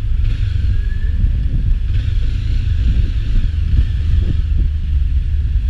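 Steady low rumble of a moving vehicle: engine, road and wind noise at an even level.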